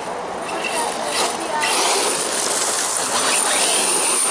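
Radio-controlled car running on a dirt track: a rushing, mechanical noise with a thin high whine, growing louder about one and a half seconds in as it comes closer.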